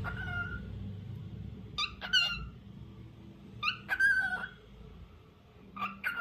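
Lutino cockatiel whistling: four short calls, each a sharp note that slides into a brief held whistle, coming about every two seconds.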